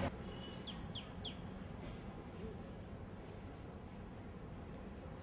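Small birds chirping in quick runs of about three short sweeping notes, each run repeating every second or two, over faint steady background noise.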